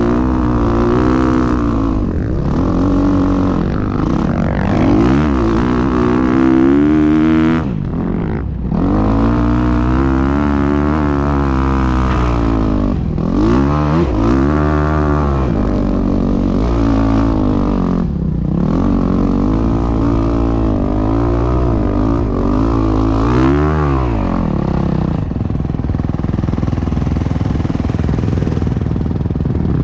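Dirt bike engine being ridden hard, the revs climbing and dropping again every few seconds as the throttle is worked and gears change. Over the last few seconds the engine note holds steadier.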